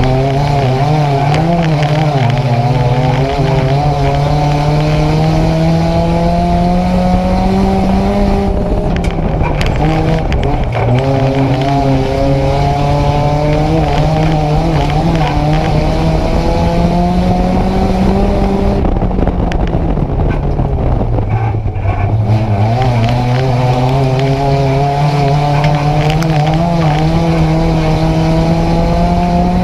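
Nissan Micra race car's engine heard from inside the cabin at racing speed. The note climbs steadily under throttle, falls away about eight seconds in, and eases off again around twenty seconds before climbing once more.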